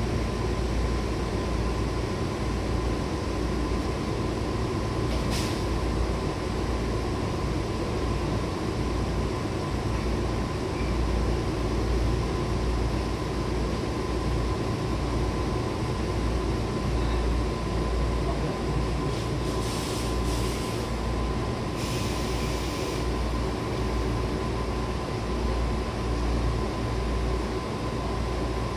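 A 105 series electric train running, heard from inside the car: a steady deep rumble of wheels and running gear with a thin steady whine above it. Short hissy noises come about five seconds in, around twenty seconds, and again a couple of seconds later.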